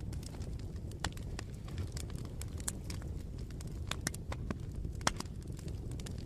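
Bonfire burning with a steady low rumble and irregular sharp crackles and pops of burning wood, the loudest pop about five seconds in.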